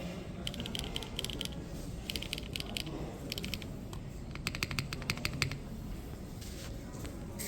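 Mechanical keyboard being typed on in short runs of rapid key clicks with brief pauses between them, over a steady low background noise.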